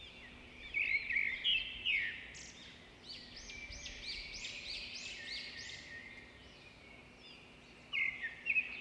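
Several birds chirping and singing at once in quick, high-pitched rising-and-falling notes. The calls are loudest about a second in and again near the end.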